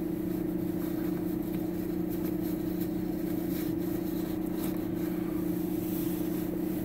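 Car idling in freezing weather while it warms up, heard from inside the cabin: a steady, even hum with two constant low tones, from the engine and heater running.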